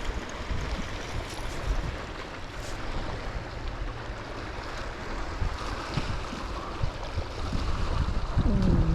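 Wind buffeting the microphone over water lapping around a kayak, a steady rumbling noise. Near the end comes a short wordless vocal exclamation.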